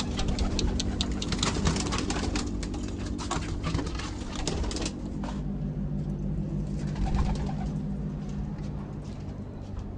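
Domestic pigeons cooing in a loft, low and steady, with a quick run of sharp clicks and rustles during the first half that then dies away.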